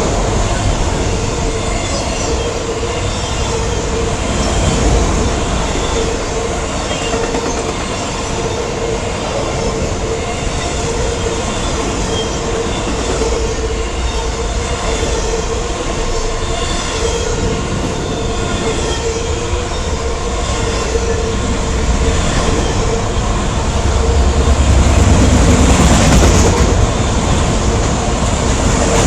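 Norfolk Southern freight train rolling past close by: a continuous rumble of freight cars on the rails, with clickety-clack from the wheels and a steady tone held throughout. The low rumble swells for a few seconds near the end.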